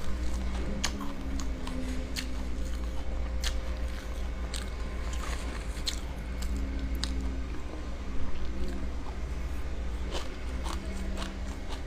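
Passion fruit being bitten and chewed: irregular wet crunches and small crackles as the seedy pulp is eaten, over a steady low hum.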